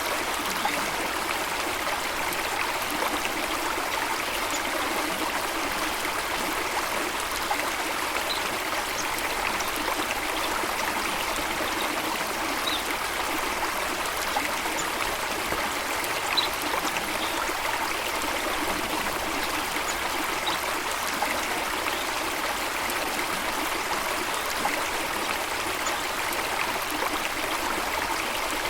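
Flowing water of a stream or small waterfall, a steady, unbroken rush, with a few faint, very brief high ticks now and then.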